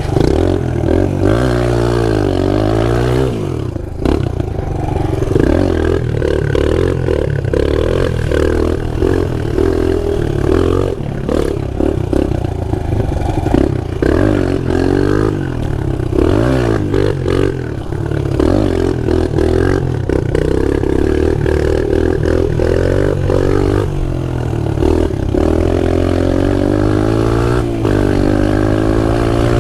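Pit bike engine being ridden hard, revving up and dropping back again and again as the throttle is opened and closed.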